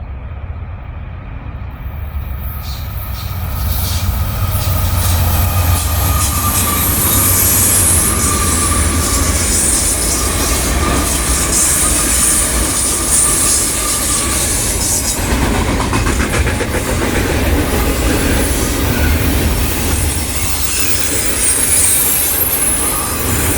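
A train rolling past: a steady low rumble of the railcars with a high squeal from the wheels, building up over the first few seconds and then holding loud.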